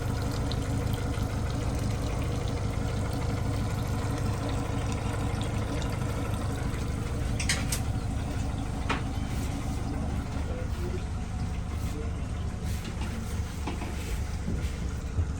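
Motorboat engine running steadily at low revs with water noise around the hull, and two short high chirps about seven and a half and nine seconds in.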